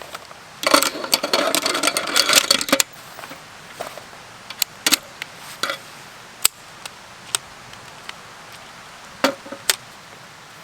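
Small hard objects clattering and rattling together for about two seconds as gear is handled, followed by scattered single clicks and knocks.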